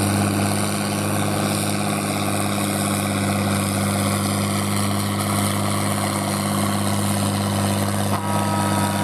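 Pulling tractor's engine running steadily under load during a pull, an even deep drone. Shortly before the end, a higher whine joins in.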